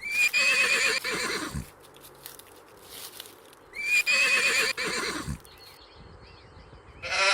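Horse neighing twice, about four seconds apart: each whinny starts high and quavering, then falls away to a low rumble.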